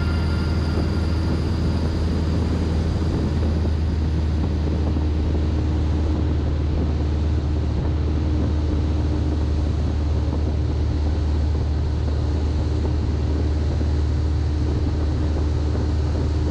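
Cessna 152's four-cylinder Lycoming engine and propeller droning steadily in flight, an even low hum that holds a constant level.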